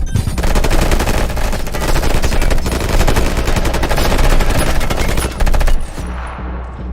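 Sustained automatic gunfire, a dense run of rapid shots, cutting off about six seconds in, leaving a low rumble.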